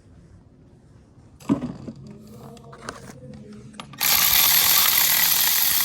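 Ratchet wrench clicking and tool knocks, typical of loosening the oil drain bolt on a Honda CRF150F. About four seconds in, a loud steady hissing rush starts and holds.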